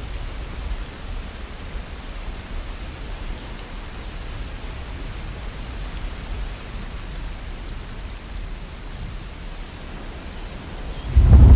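Heavy rain falling steadily, an even hiss over a low rumble. Just before the end a loud rumble of thunder breaks in suddenly.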